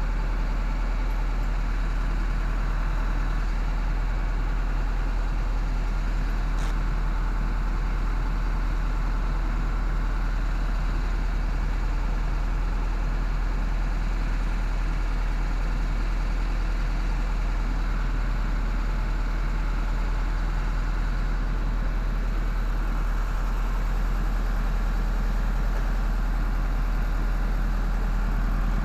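Engine running steadily at idle, a constant low drone that does not change.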